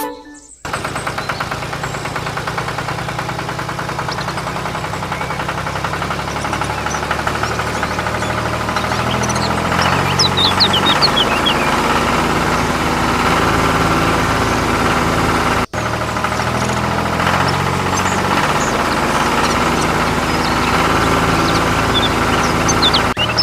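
Small engine running steadily with a rapid knocking beat, starting just under a second in; it drops out for an instant about two-thirds of the way through, then carries on.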